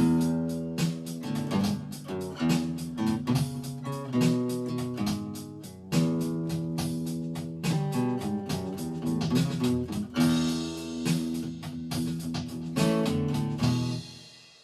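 Guitar playing the closing bars of a song after the vocals have ended: strummed chords and picked notes. The playing ends on a last chord that rings out and fades near the end.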